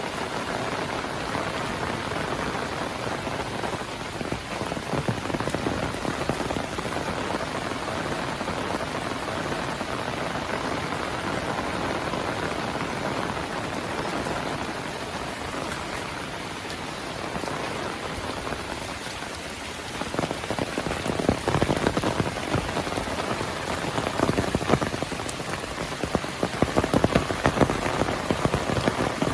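Heavy monsoon rain falling in a steady hiss. About two-thirds of the way through, close, sharp drop impacts join in and the patter grows louder and more uneven.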